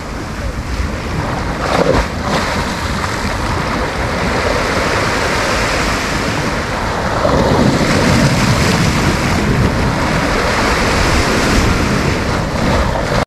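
Sea waves breaking and washing up the beach in a continuous surf, with wind rumbling on the microphone. The surf swells louder from about seven seconds in.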